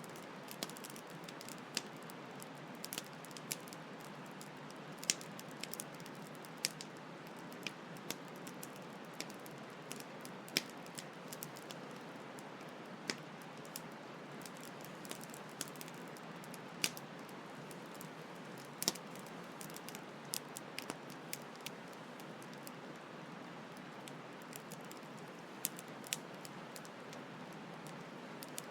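Wood campfire crackling: irregular sharp pops and snaps, a few louder than the rest, over a steady hiss of flowing stream water.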